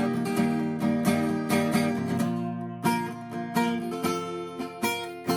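Acoustic guitar strummed in a steady rhythm without singing. After about two seconds the strumming thins to a few spaced strokes.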